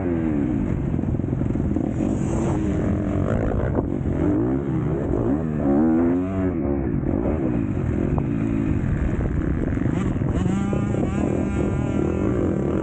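MX2 motocross bike engine revving hard, its pitch rising and falling again and again as it accelerates and shifts, with a second bike's engine audible near the end.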